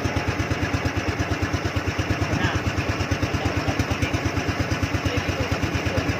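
Small engine chugging steadily at a slow, even beat of about eight pulses a second.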